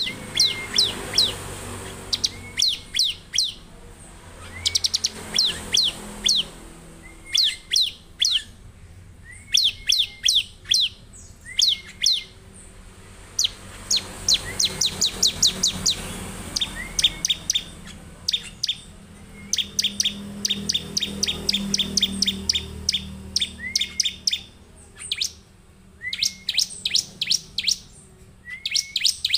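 Bar-winged prinia (ciblek) singing loudly and persistently: repeated bursts of rapid, sharp chipping notes, several to a burst, each burst often opened by a short rising whistle, coming every couple of seconds.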